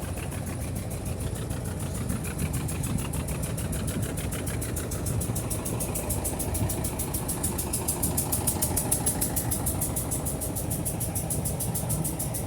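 Engine of a small wooden motor ferry boat (kelotok) running steadily at idle, a low rumble with a fast, even pulse.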